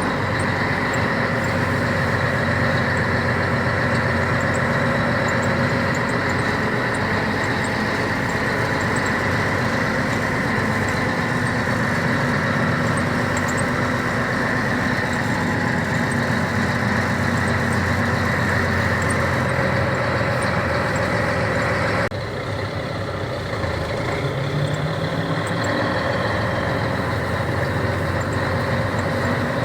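Scania 113 truck's diesel engine running steadily under load as the truck drives through rough, wet ground. The sound shifts abruptly and drops a little about two-thirds of the way through.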